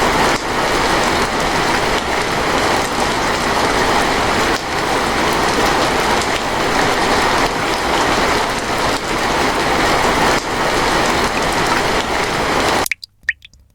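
Steady hiss of falling water, like rain, that cuts off abruptly near the end.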